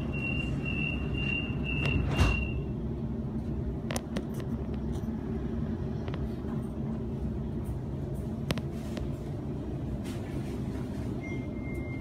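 Interior running noise of a Sydney Trains Waratah A set electric train in motion: a steady low rumble, with a high thin tone that comes and goes every half second or so for the first couple of seconds and a sharp knock about two seconds in.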